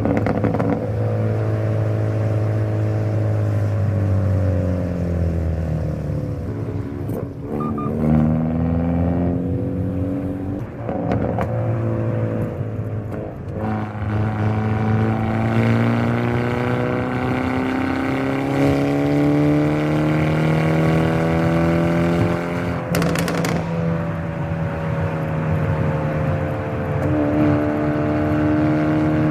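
Hyundai Avante N (Elantra N) turbocharged four-cylinder engine and exhaust under hard driving: the engine pitch climbs through the revs and drops sharply at several gear changes, with short sharp cracks at some of the shifts.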